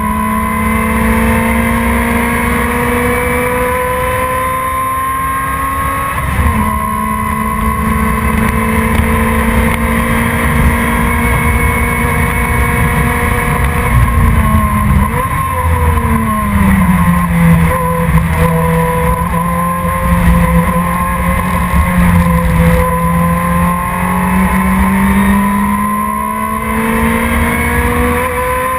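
Race car engine running hard and continuously under road and wind noise. The revs hold steady with a small step about six seconds in, drop noticeably about halfway through, then climb gradually again near the end.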